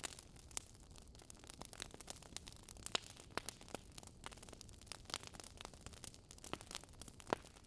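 Wood fire crackling: sharp, irregular pops and snaps of burning logs over a low steady hiss.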